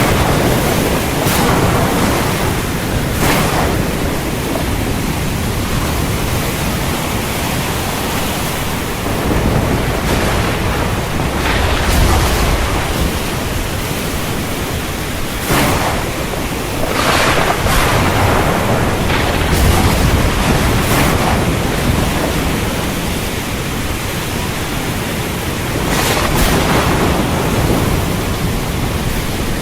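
Heavy rain pouring steadily with wind gusting on the microphone. Short louder surges come every few seconds, with deeper rumbles a few times.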